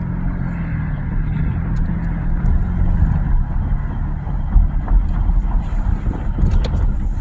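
Car driving: a steady low engine and road rumble, with a low hum that fades out about three seconds in.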